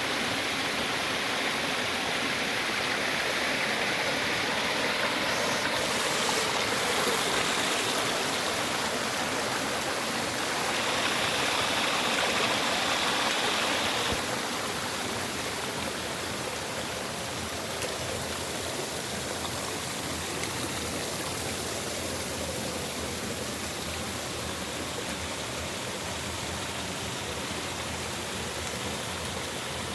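Running water of a stream, a steady rush that is a little louder in the first half and drops slightly about 14 seconds in.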